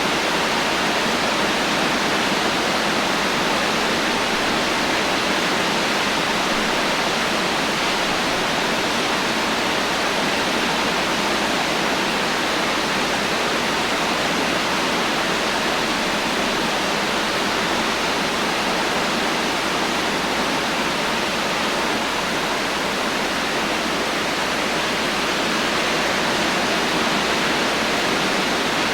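Heavy rain falling as a steady, even hiss with no thunder.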